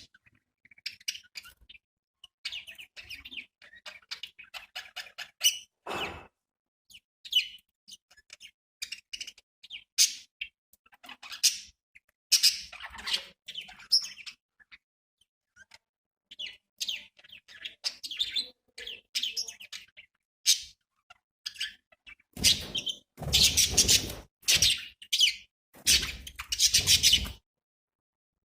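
Budgerigars chirping in short, scattered calls, with a few loud noisy bursts near the end.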